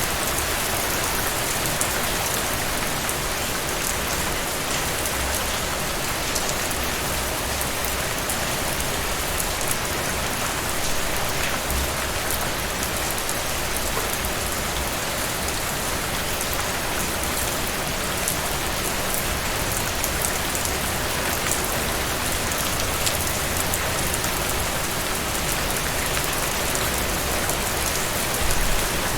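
Steady rain falling on a surface, a dense even hiss with the ticks of individual drops.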